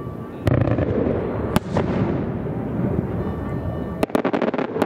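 Aerial fireworks shells bursting over a continuous rumble of explosions. There is a sharp bang about half a second in and another about a second later, then a rapid string of sharp cracks near the end.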